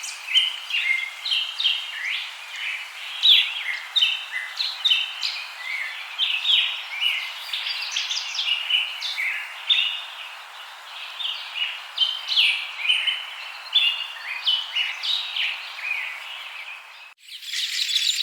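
A busy chorus of small birds, many short overlapping chirps and tweets over a steady background hiss. A little after 17 s it cuts abruptly to a different, denser and higher-pitched chorus.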